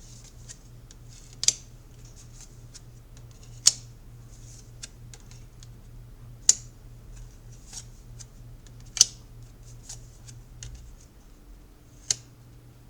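Tarot cards being handled on a table: five sharp clicks and snaps a couple of seconds apart, with softer ticks between, over a low steady hum.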